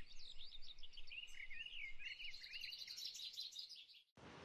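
Songbirds singing: a quick, varied run of chirps and trills, several notes overlapping. The song cuts off abruptly about four seconds in, giving way to a steady rushing hiss.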